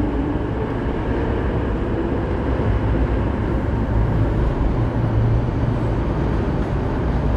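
MTR East Rail Line electric train running past the end of an underground platform into the tunnel. A steady low rumble of wheels on rail.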